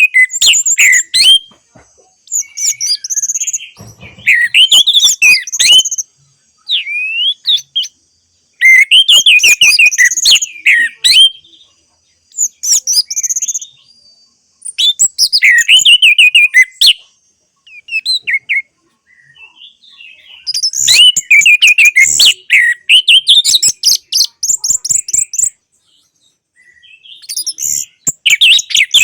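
Orange-headed thrush singing: loud phrases of rapid, varied whistled and twittering notes, each lasting a second or two, with short pauses between them.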